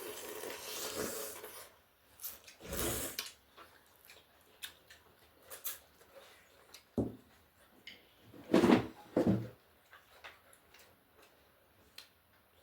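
Close-up eating sounds during a meal of noodle soup and chicken wings: a few short, separate bursts of mouth noise, the loudest pair about two-thirds of the way through, with faint clicks in between.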